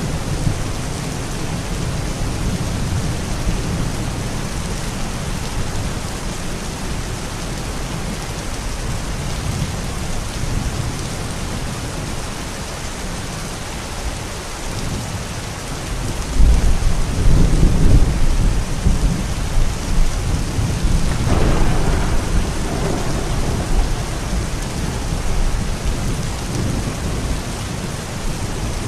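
Steady heavy rain, with a roll of thunder that rumbles in suddenly a little past halfway and fades out over several seconds.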